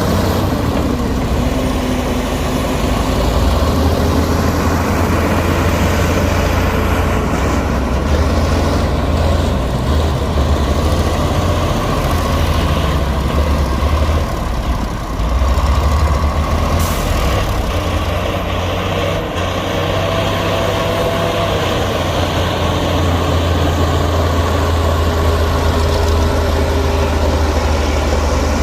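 Heavy diesel earthmoving machinery running under load, a deep steady engine drone that rises and falls slightly in pitch as the throttle changes. A brief air hiss cuts in about two-thirds of the way through.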